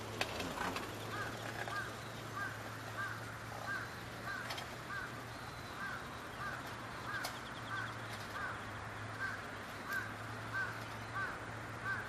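A bird calling a steady run of short, arched notes, about one and a half a second, over a steady low hum.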